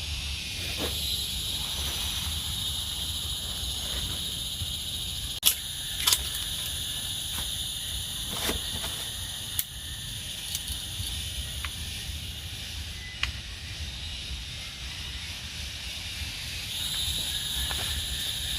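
Steady high-pitched chorus of night insects in the forest, over a low rumble. A few sharp clicks or taps cut through, the loudest two about five and six seconds in.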